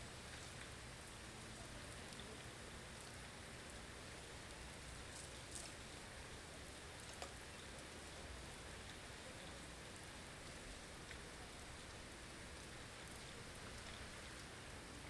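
Steady hiss of a blizzard ambience, wind-driven snow and ice pattering, with a couple of faint ticks about five and seven seconds in.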